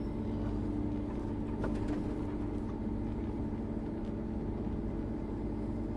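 Claas Jaguar 8700 forage harvester running steadily, a low rumble with a constant hum, as its corn header is unfolded.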